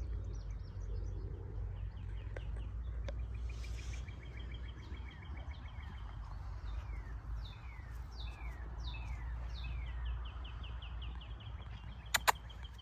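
Songbirds singing: a rapid high trill, repeated, alongside a series of falling whistled notes. A steady low rumble underlies it, and there is a sharp click near the end.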